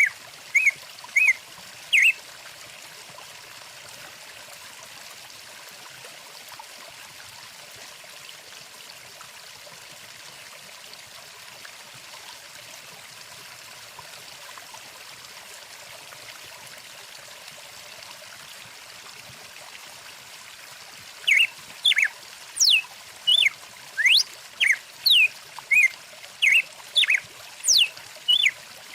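Stream water flowing steadily, with a bird giving short, loud whistled chirps, some sliding up or down in pitch, a few near the start and then a quick run of them, about two a second, in the last third.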